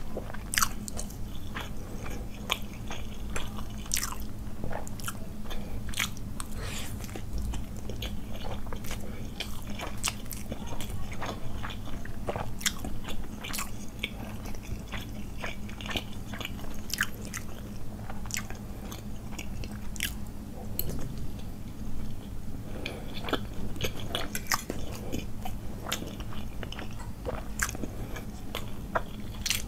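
Close-miked chewing of forkfuls of Maggi masala noodles: a steady run of irregular wet mouth clicks and smacks, over a faint steady low hum.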